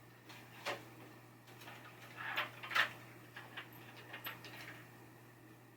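Small clicks and taps from handling a pinball pop bumper's leaf switch assembly while its contact gap is set: one click about a second in, a louder quick cluster a little past the middle, then a few lighter ticks.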